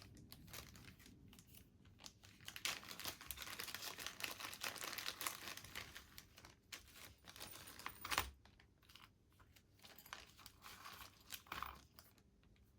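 Rummaging for small spare parts: crinkling rustle of packaging with light clicks of small pieces, busiest in the first half. A sharp tap about eight seconds in and another near the end.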